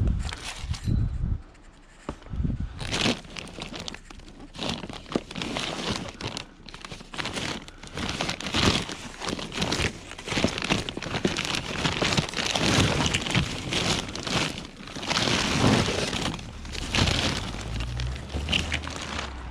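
Rummaging through discarded household items by hand: irregular crinkling, rustling and clattering of plastic and metal, with some knocks.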